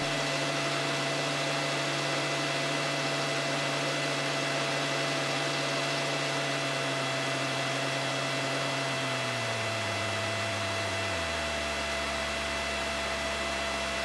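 Aircraft intercom audio during taxi: a steady electrical hum and hiss with fixed whining tones, under the low tone of the engine, which drops in pitch about nine seconds in and again about eleven seconds in as the power comes back.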